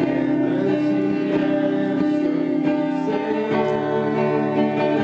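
Acoustic guitar strummed steadily, playing a praise song, with faint singing.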